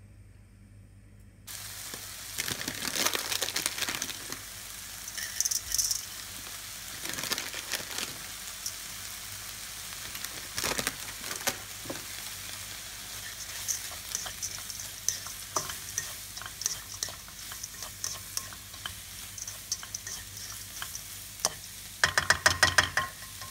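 Frozen mixed vegetables sizzling in a hot nonstick frying pan, starting abruptly about a second and a half in. A plastic spatula scrapes and taps against the pan as they are stirred, with a quick burst of rapid spatula strokes near the end.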